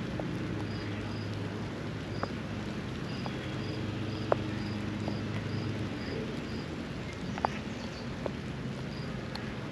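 Steady light rain with scattered drops ticking sharply, over a low hum that thins out about six seconds in. A faint, short high chirp repeats about twice a second.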